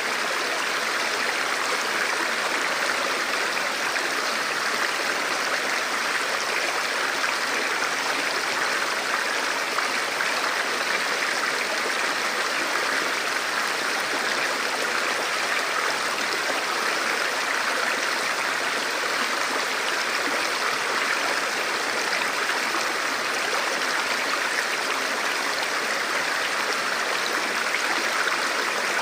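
A river or stream flowing over rocks, a steady rushing and gurgling of water.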